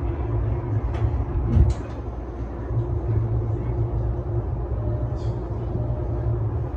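Steady low hum and rumble inside the cab of a stationary E233-series electric train, with a faint steady tone over it. There is a short hiss with a knock about a second and a half in, and another faint hiss around five seconds in.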